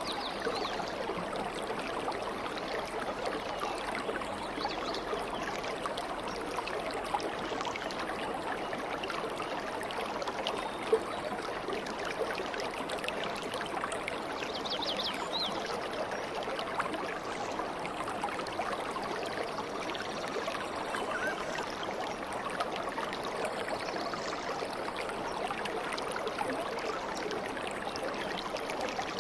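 Water flowing steadily in a stream, an even babbling rush. A few faint high bird chirps come about halfway through.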